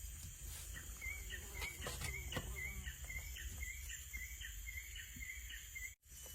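Forest ambience: a steady high insect drone and a low rumble, with a short chirp repeating about twice a second from about a second in. A few soft clicks come around two seconds in, and the sound cuts off abruptly just before the end.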